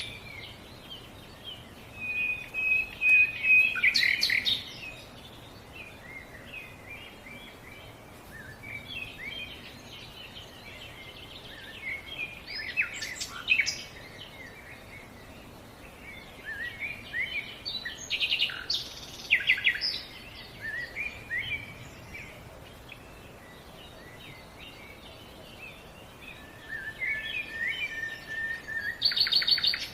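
Songbirds singing and calling in repeated bursts of short, high chirps and whistled phrases, with quieter spells between, over a steady soft background hiss.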